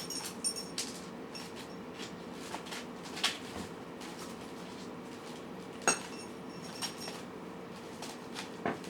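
Cat food dishes giving scattered light clinks and taps as the cats eat, a few of them sharper, over a steady faint hum.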